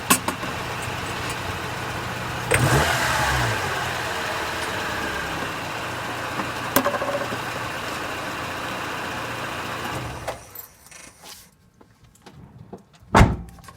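Mitsubishi Pajero Mini H56A's engine running at idle. It is revved once, briefly, about two and a half seconds in, with a rising, hissy rasp, then settles back. The engine is shut off about ten seconds in, followed by a few small knocks and one loud thump near the end.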